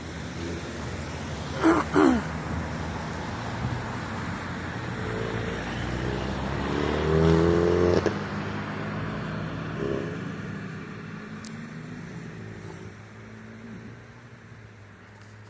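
A car passing by: engine and road noise build to a peak about seven or eight seconds in, then fade away. Two short, sharp, falling sounds come about two seconds in.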